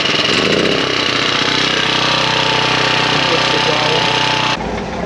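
A loud engine-driven machine running steadily with a rapid, hammering pulse, cutting off abruptly about four and a half seconds in.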